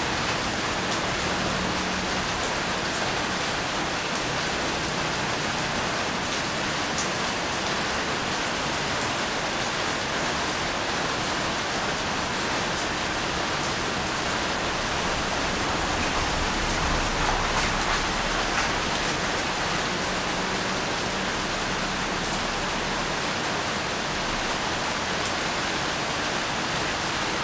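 Steady rain falling: an even hiss with faint scattered drop ticks, a little louder about two-thirds of the way through.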